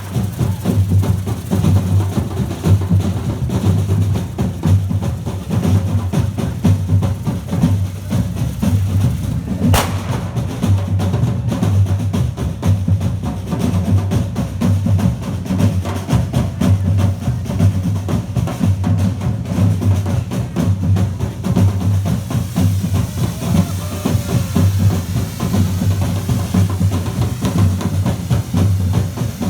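Drum-led percussion music with a steady, regular bass-drum beat and snare drums, plus a single sharp knock about ten seconds in.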